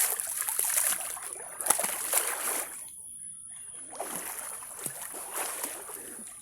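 Water splashing and sloshing in irregular bursts, with a short lull about three seconds in.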